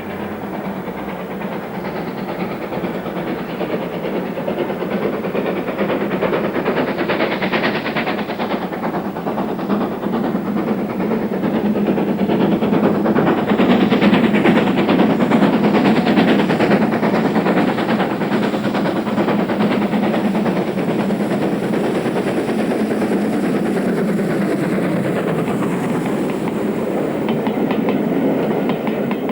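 A Great Western Castle-class 4-6-0 steam locomotive running with its train, with continuous rail and running noise. The sound grows louder toward the middle and stays loud after.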